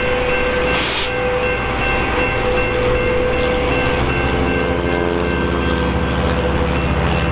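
Metrolink commuter train rolling past with steady high whining tones from its wheels and running gear. A short burst of hiss comes about a second in, and a diesel locomotive's low engine hum builds through the second half.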